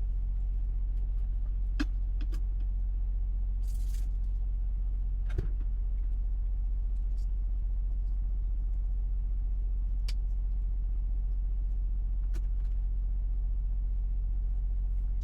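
Semi truck's diesel engine running, a steady low drone heard inside the cab, with a few light clicks and a brief hiss about four seconds in.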